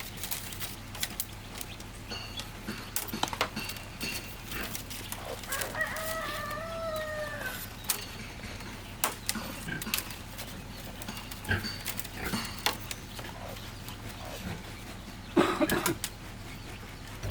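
A rooster crows once, a single call of about two seconds a third of the way in, among scattered light clicks and knocks. A brief, louder noise comes near the end.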